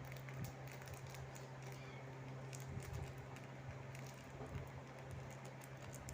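Small crackles and clicks of a plastic gummy-candy wrapper being handled, over a steady low hum.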